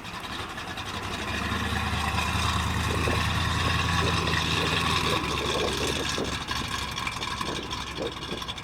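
The 350 cubic inch V8 of a 1967 Chevrolet Nova running. It grows louder over the first few seconds, holds a steady hum, then eases off after about five seconds.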